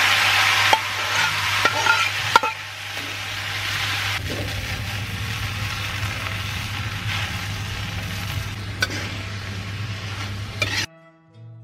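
Rice vermicelli frying in hot oil in a metal wok, the sizzle loudest at first and easing after a couple of seconds, while a metal spatula stirs and tosses it, knocking and scraping against the pan a few times. The sizzle cuts off suddenly near the end and faint music comes in.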